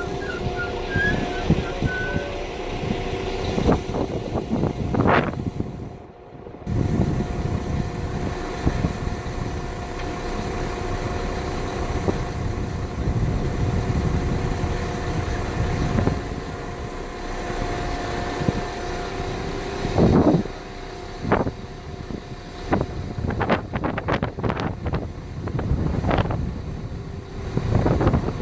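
Train running, a steady drone with a held tone, broken by repeated brief squeals and clattering knocks.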